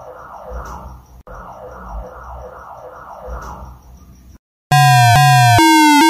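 Synthesized emergency-alert alarm audio: a siren-like wailing pattern with faint quick beeps and a low pulse about every second and a half, stopping about four seconds in. After a brief gap, a much louder alarm begins: a run of electronic tones about half a second each, stepping in pitch and each gliding slightly down.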